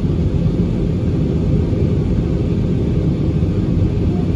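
Steady low drone inside the passenger cabin of an Airbus A320 in flight: engine and airflow noise with no changes.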